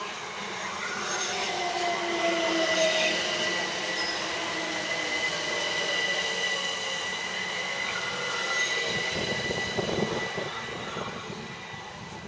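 Class 387 electric multiple unit arriving and braking into the platform. A whine from its traction motors falls in pitch over the first few seconds, over a steady high squeal from the wheels and brakes.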